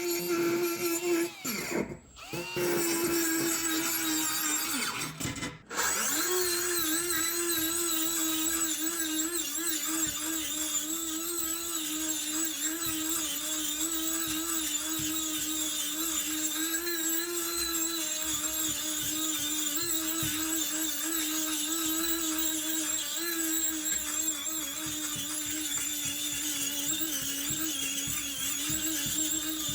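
A small power tool running at a steady high speed as it works on a rusty iron ice claw. It cuts out and restarts twice in the first six seconds, then runs on evenly.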